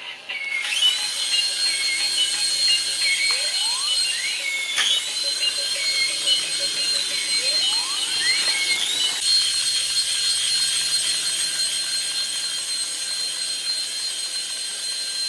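Toy RC helicopter's small electric motors running with a high-pitched whine that dips and climbs back twice, with two rising electronic sweeps beneath it.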